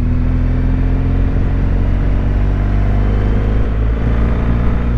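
BMW R1200GS boxer-twin engine running at a steady cruise, with wind and road noise.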